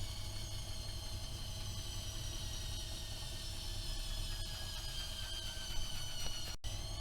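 AEG Öko-Lavamat 76730 washing machine's drum motor whining over a low hum. The whine falls slowly in pitch as the drum slows. Near the end the sound cuts out for an instant, then the whine rises again as the drum speeds up.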